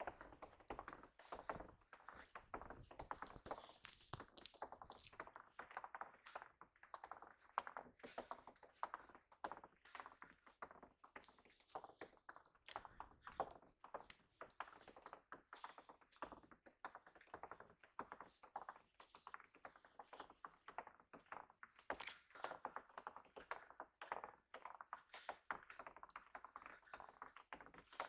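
Faint, dense, irregular tapping and clicking, many small ticks a second with no steady rhythm.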